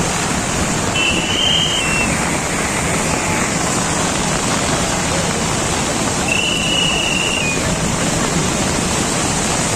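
Steady, loud rush of floodwater from a rain-swollen torrent, with two brief high steady tones heard above it, about a second in and again a little past six seconds.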